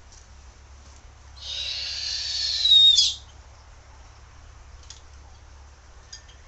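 A bird's single harsh screech of about two seconds, starting about a second and a half in, growing louder and ending in a sharply falling note.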